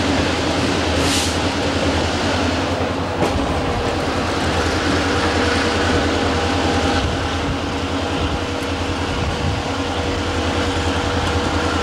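Skunk Train running along the track: a steady rumble and rattle of the moving cars. There is a brief hiss about a second in and a sharp click at about three seconds, and a faint steady whine joins from about four seconds in.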